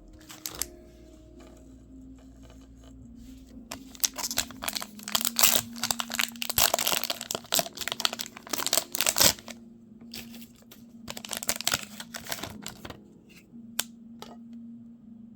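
Foil wrapper of a baseball card pack being crinkled and torn open by hand, in two spells of dense crackling, the longer one in the middle and a shorter one a little later.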